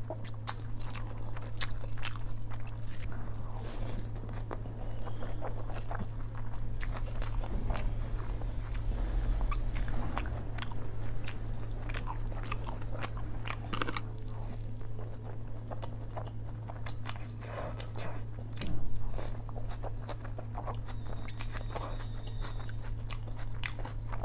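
Close-miked mukbang eating of dal and rice: wet chewing, lip smacks and mouth clicks, over a steady low hum. One louder bump about three-quarters of the way through.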